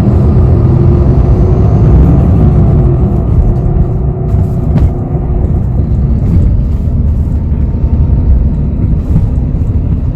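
Interior of a city bus on the move: steady engine and road rumble, with light rattles and ticks from the cabin.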